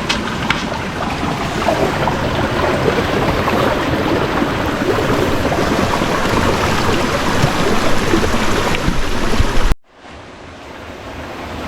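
Shallow stream water splashing and sloshing as someone wades through it barefoot, ankle- to shin-deep. It cuts off suddenly about ten seconds in, and a quieter rush of water then slowly builds.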